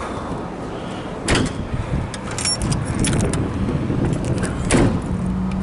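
Keys jangling lightly, with a few sharp knocks about a second in and again near the end, over a steady low rumble.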